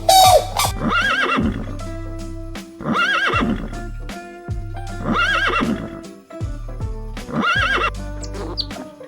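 Horse whinnying four times, about two seconds apart, each call a wavering rise and fall, over background music with a steady low tone.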